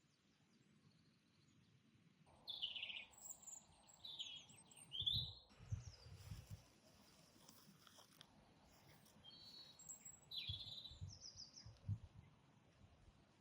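Songbirds singing short, bright phrases of quick falling notes in two bouts, one starting about two and a half seconds in and another around ten seconds. Low rumbles sound under the song, about five seconds in and again near the end.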